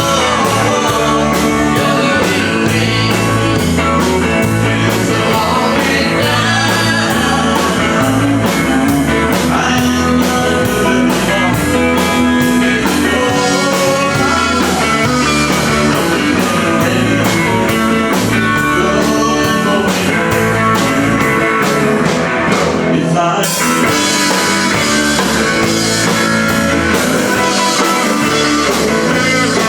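Live band playing a country-rock number: electric guitar over bass and a steady drum beat.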